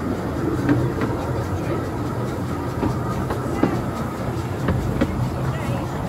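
15-inch narrow-gauge railway train running along the track: a steady low rumble with scattered wheel clicks.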